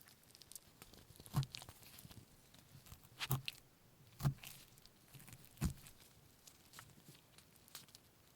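Close-miked food-preparation handling: quiet crunchy clicks and rustles throughout, with four louder sharp knocks spread about a second apart.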